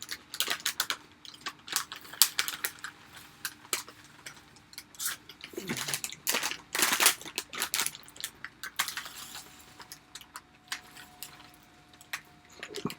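Close-up chewing of crunchy food, a run of irregular crackling crunches.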